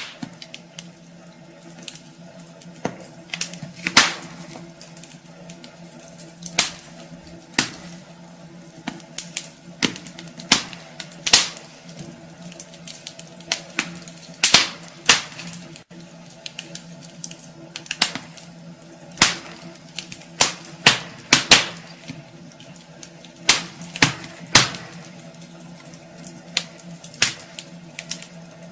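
Wood fire burning in a fireplace, crackling with irregular sharp pops and snaps over a steady low hum.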